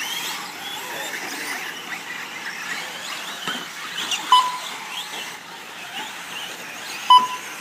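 Electric RC short course trucks racing, their motors whining up and down in pitch as they throttle on and off. A short electronic beep from the lap timing system sounds twice, about four seconds in and near the end.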